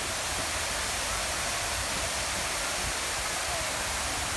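Waterfall in a park, water pouring down in a steady, even rush.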